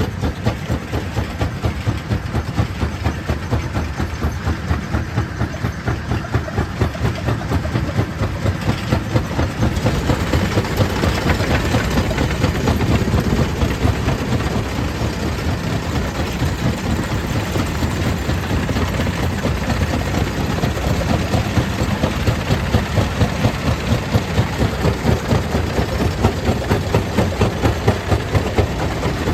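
Stone crusher plant machinery running steadily, with a fast, even pulsing beat and a heavy rumble.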